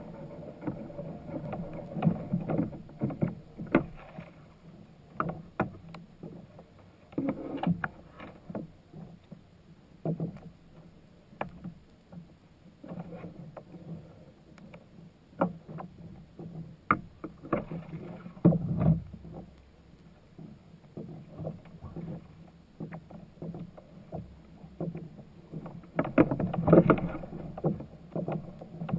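Irregular knocks and clatter on a fishing kayak, over the sound of water against the boat, with a louder spell of knocking near the end.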